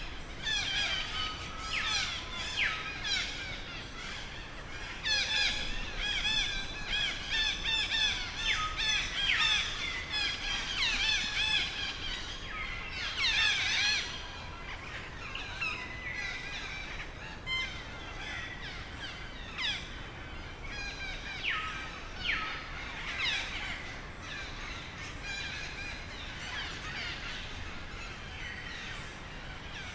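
A baby monkey squealing and screaming in fear, with rapid, repeated high-pitched calls that sweep up and down in pitch. The calls are densest in the first half and thin out after about fourteen seconds.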